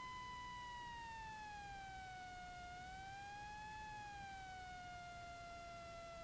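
Cessna 172 stall warning horn sounding in the landing flare: one faint, steady reed-like tone that sags in pitch, wavers up and back once, then holds, showing the wing close to the stall at touchdown.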